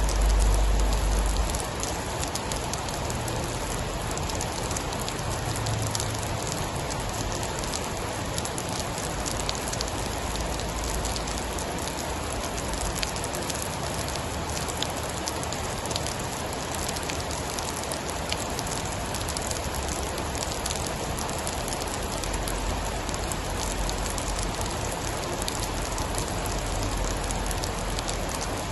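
Steady heavy rain, a dense patter of drops on a surface. A low rumble swells at the start and again over the last few seconds, the rumble of a storm.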